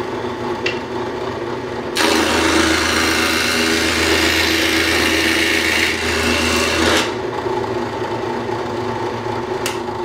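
Drill press spinning a Wagner safety planer cutter head, running steadily. About two seconds in, wood is fed under the cutter and it planes with a loud cutting noise for about five seconds, then the cut stops and the drill press runs on.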